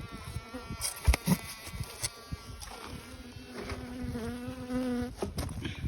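Honeybees buzzing in flight close by, a steady hum that grows louder in the second half, with a few short knocks and clicks along the way.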